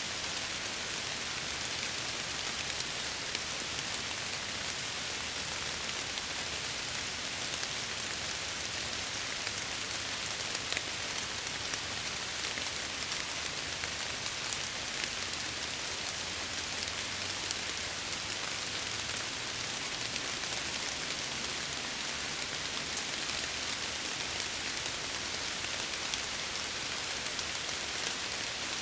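Steady rain on a window, an even patter with many small drop ticks.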